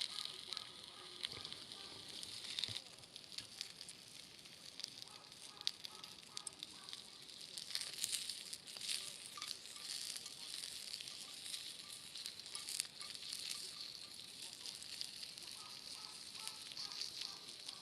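Food sizzling as it fries over a wood campfire, with a steady hiss and frequent sharp crackles of the burning wood.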